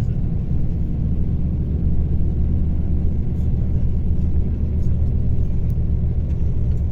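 Mercedes-Benz O-500RSD coach's diesel engine running steadily, a low, even rumble.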